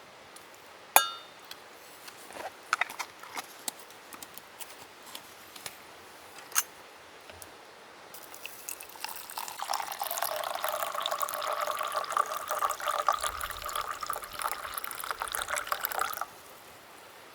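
Liquid poured steadily into a vessel for about seven seconds while making coffee, stopping suddenly. Before it, a sharp clink that rings briefly and a few light clicks of utensils.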